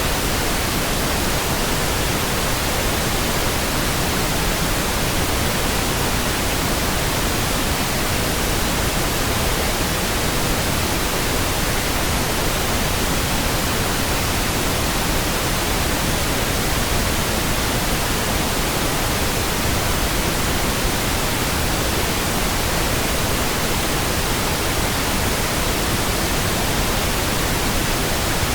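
Steady pink noise: an even, unchanging hiss spread across all pitches, with no breaks or sudden sounds.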